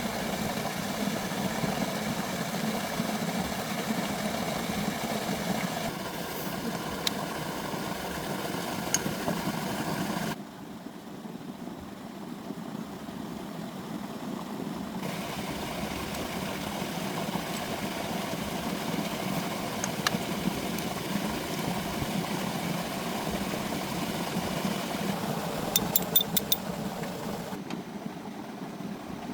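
Tractor engine running steadily at idle, its tone changing abruptly a few times. A few sharp clicks near the end.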